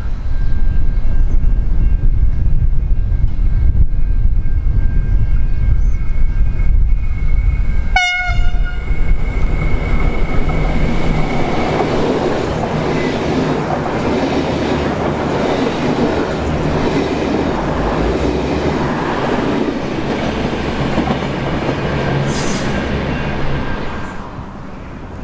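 V/Line passenger train passing through: a heavy low diesel rumble, a short horn blast about eight seconds in with one high note held for a few seconds, then the steady noise of the train running by, which drops away near the end.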